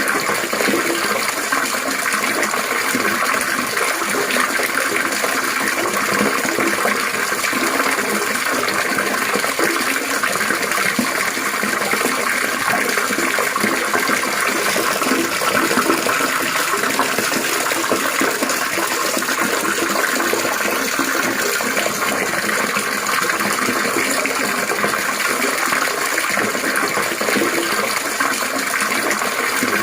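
Continuous trickling, splashing water, like a small stream or fountain, running steadily without a break.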